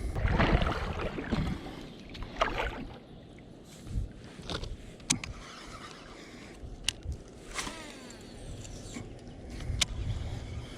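Sounds of a kayak on the water: noisy splashy rustling early on and again about two and a half seconds in, then a few sharp clicks, over a low rumble of wind on the microphone.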